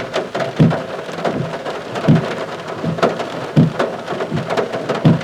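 Rain pattering on a car, heard from inside it, with a dull regular thump about every three-quarters of a second.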